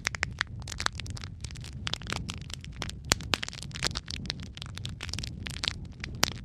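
Wood fire crackling in a fireplace: a steady run of irregular sharp pops and snaps over a low rumble of flames.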